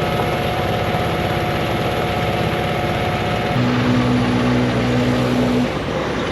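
An engine running steadily, with a stronger low hum coming in about three and a half seconds in and stopping near the end.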